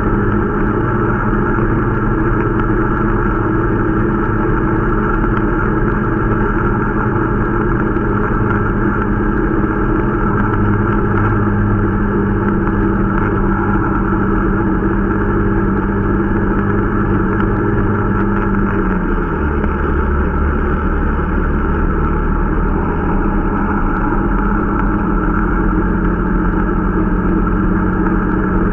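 Irbis Dingo T125 snowmobile's small 125 cc four-stroke engine running steadily while being run in. Its speed drops about two-thirds of the way through, then picks up again a few seconds later.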